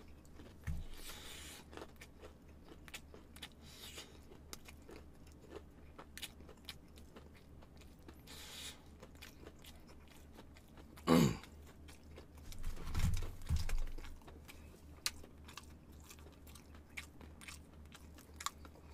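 Close-up chewing and biting of crispy fried chicken: crunchy bites and wet mouth clicks. A louder, brief low sound with a falling pitch comes a little past halfway.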